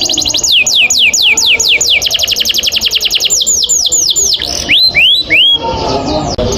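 Male canary singing a long rolling song: fast trills of rapid-fire notes alternating with runs of high downward-sweeping whistles, with a few lower rising notes near the end.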